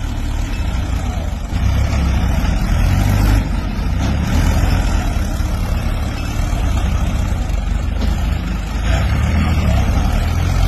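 Diesel tractor engines running hard with a deep, steady rumble. The loudness swells and eases every few seconds.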